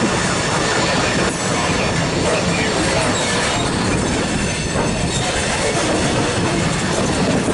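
Ballast hopper cars of a rock train and their diesel locomotives rolling past close by, a loud steady rumble of steel wheels on rail with a faint high wheel squeal on the curve.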